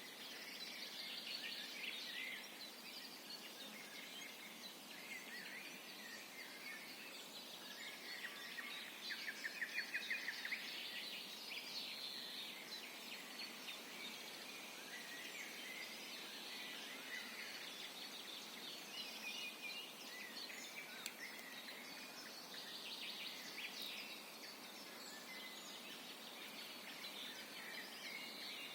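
Several songbirds singing at once in a spring woodland chorus, with overlapping chirps and phrases over a steady hiss. A rapid trill stands out as the loudest song about nine seconds in.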